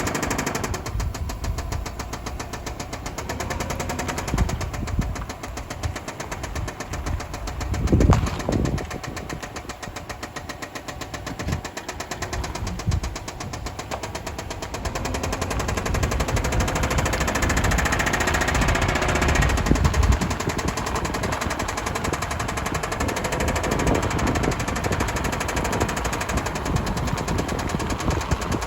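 2005 Subaru Outback XT's turbocharged 2.5-litre flat-four engine running under way, with a rapid, even knock in step with engine speed that the owner identifies as rod knock. There is one louder thump about a third of the way in, and the engine gets louder from about halfway.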